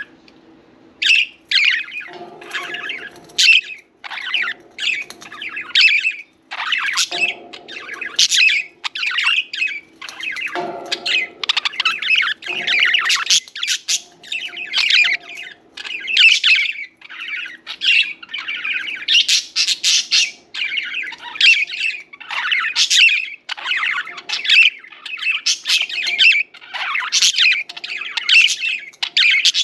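Several budgerigars chirping and chattering in a rapid, near-continuous stream of short, scratchy calls.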